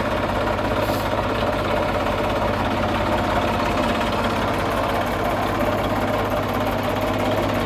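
Indofarm 2030 tractor's diesel engine idling steadily.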